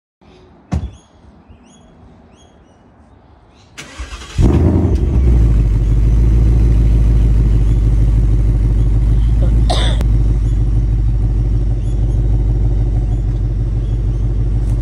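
A 2021 Ford Mustang being started: a sharp click less than a second in, then about four seconds in the engine cranks and catches with a loud burst and settles into a steady, low idle.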